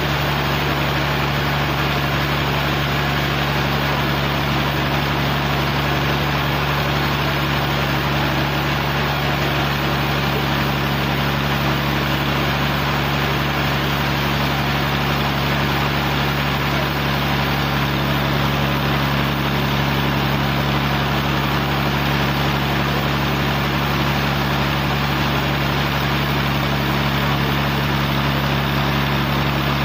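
A sawmill's engine running steadily at an even speed, a constant drone that does not rise or fall.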